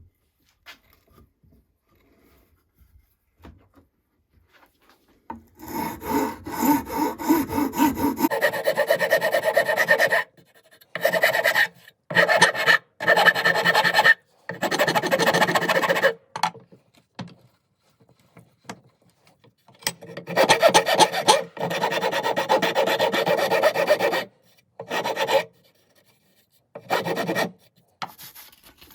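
Hand rasp scraping a wooden hatchet handle in quick back-and-forth strokes, starting about five seconds in and coming in runs of a few seconds with short pauses between.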